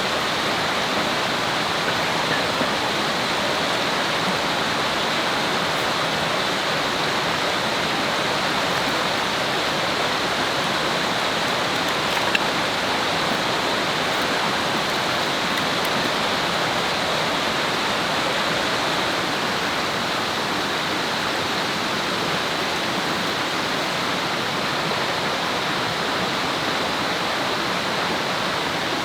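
River water rushing steadily, an even, unbroken rush, with one small click about twelve seconds in.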